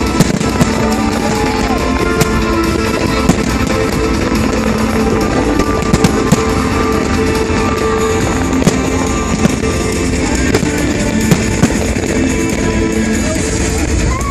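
Fireworks bursting: many sharp bangs and cracks at irregular intervals over continuous loud music.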